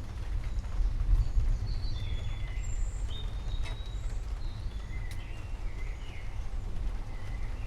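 Birds singing in short chirps and whistles over a continuous low rumble.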